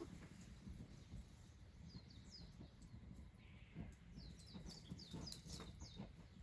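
Faint bird calls: two runs of quick, short falling chirps, one about two seconds in and a longer one near the end, over low outdoor background noise.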